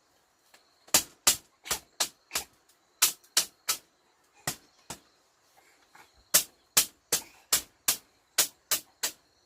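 A hand tool striking wood in quick, sharp blows, about two to three a second in uneven runs, starting about a second in: cottage repair work such as chopping or hammering.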